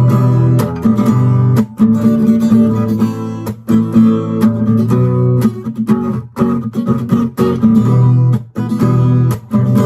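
Acoustic guitar played percussively: strummed chords ringing, cut through again and again by sharp knocks on the guitar.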